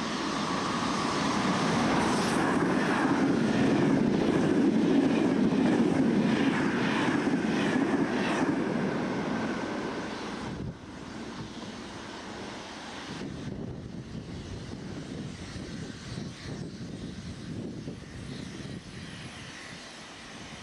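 Train passing close through the station: a loud steady rumble with a run of regular clacks in the middle. It drops off sharply about ten seconds in to a quieter distant rumble with a few soft beats.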